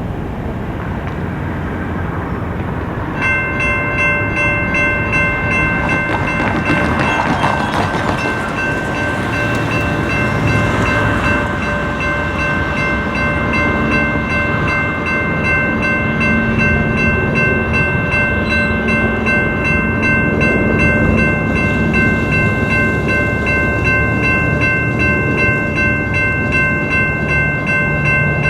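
Railroad crossing's NEG electronic bells start ringing suddenly about three seconds in and keep up a steady, rapid ding over a low rumble of traffic and train noise.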